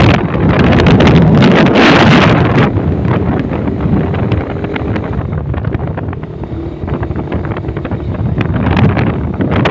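Wind rushing over the microphone of a moving motorcycle, with the engine running underneath. The rush is loudest over the first few seconds, eases in the middle and builds again near the end.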